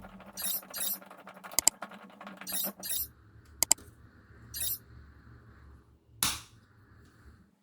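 Short, sharp metallic clicks and clinks of small window-handle parts being handled and taken apart, with one longer, louder noise about six seconds in.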